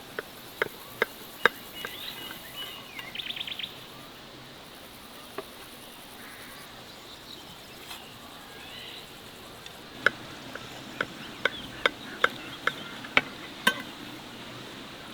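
Birds chirping, with a quick high trill about three seconds in. Two series of sharp knocks, about two a second, come near the start and again from about ten seconds in; the knocks are the loudest sounds.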